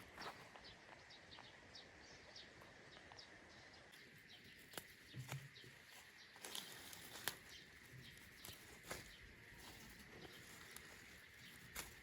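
Faint birdsong outdoors: small birds chirping in quick repeated notes, most densely in the first few seconds, with a few sharp clicks or knocks near the middle.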